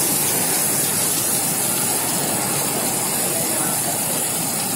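Heavy monsoon rain pouring down steadily onto a paved street and a porch roof, a dense, even hiss.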